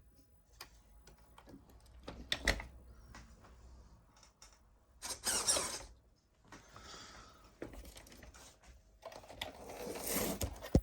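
Light plastic clicks and rustling from hands working on a model truck's chassis and wiring. There are scattered clicks, with a longer rustling stretch about five seconds in and a louder one near the end.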